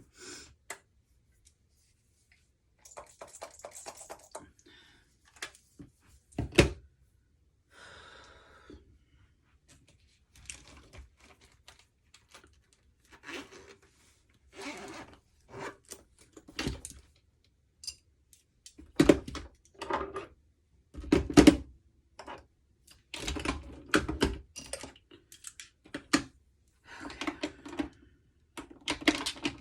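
Irregular clicks, knocks and brief rustling from objects being handled and set down, with a few heavier thuds about six seconds in and again around twenty seconds in.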